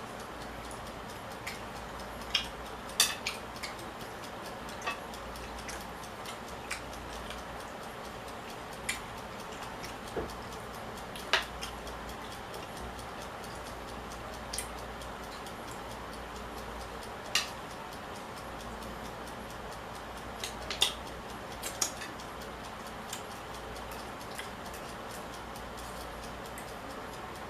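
Scattered sharp clicks and small taps of someone eating, irregularly spaced a second or more apart, over a steady low hiss.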